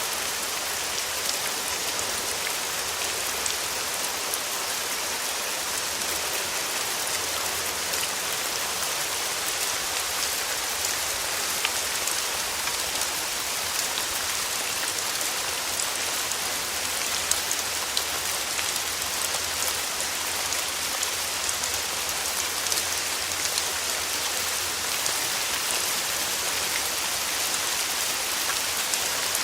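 Steady rain falling on a hard surface, an even hiss with many small sharp drop ticks.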